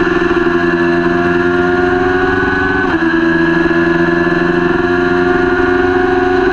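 Kawasaki Ninja 400 parallel-twin race engine under hard acceleration, its pitch climbing, dropping sharply about three seconds in as it shifts up a gear, then climbing again.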